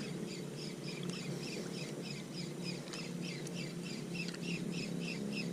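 A bird calling a rapid run of short, evenly repeated chirps, about four a second, over a low steady hum.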